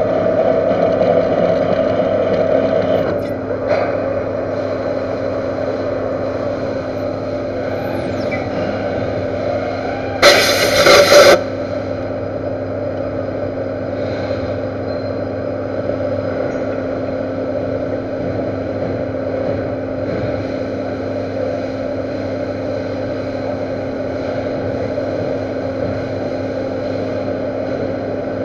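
Metal lathe running steadily with a constant hum while re-machining a weld-built-up spindle tube. About ten seconds in, a loud burst of noise lasts about a second.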